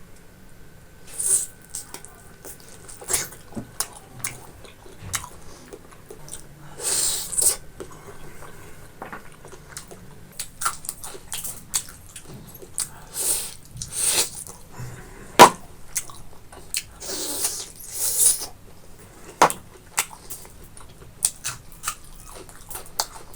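Close-miked eating sounds of someone chewing and smacking on pork and rice: a string of irregular wet clicks and smacks, with a few longer, noisier slurping or crunching bursts.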